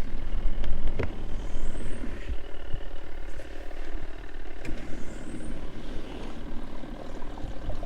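Mini portable washing machine's wash motor running, turning the tub's load back and forth, with a faint rising squeak about every three and a half seconds. The tub is overloaded with clothes, which the owner thinks is making the machine struggle.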